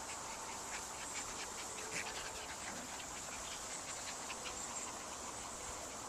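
Steady high drone of insects outdoors, with faint short chirps or squeaks scattered through it.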